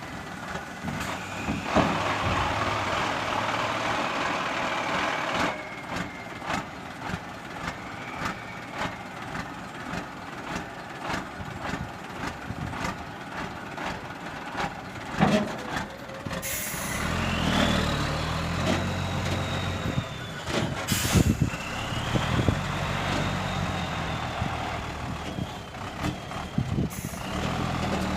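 Hino dump truck's diesel engine working, its pitch rising and falling, with short sharp air-brake hisses three times in the second half. Before that comes a long run of knocks and rattles.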